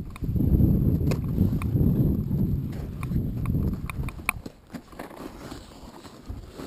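Wind buffeting the microphone as a low rumble, with a string of sharp clicks and knocks; the rumble drops away after about four and a half seconds, leaving a quieter hiss.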